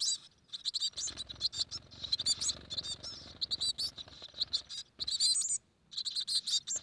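Nestling songbirds in a wall-cavity nest chirping: many quick, high-pitched cheeps in rapid runs, pausing briefly twice. These are chicks waiting to be fed by their parents.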